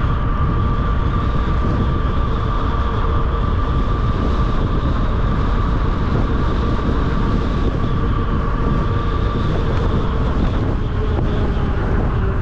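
Wind buffeting the microphone while riding a 750-watt 48-volt electric fat-tire bike at speed, with a steady high whine from the electric motor that fades about nine and a half seconds in.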